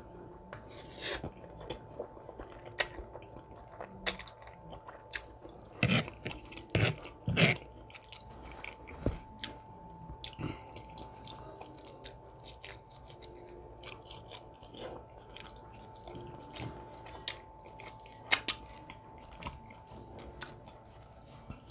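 Close-miked chewing of a mouthful of spaghetti: irregular wet clicks and smacks of the mouth, with a faint steady tone underneath.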